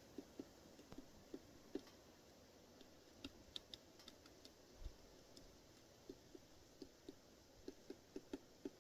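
Woodpecker tapping on wood: faint, irregular short knocks, about two or three a second, with pauses between runs.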